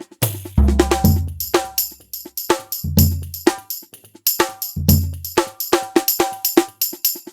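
Pearl e/MERGE electronic drum kit played in a steady groove: bright, quick cymbal and tambourine-like hits over deep, long-ringing kick drum hits about every two seconds.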